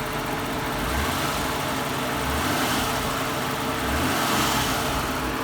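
Mitsubishi 3000GT's non-turbo 3.0-litre V6 running and lightly revved, swelling a little about a second in and again around four seconds. Quiet and smooth, a nice purr, not loud like the twin-turbo VR4.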